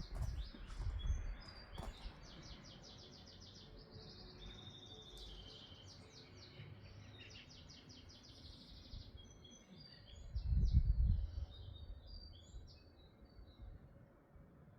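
Songbirds singing, with repeated rapid high trills and scattered chirps. A brief low rumble comes about ten seconds in.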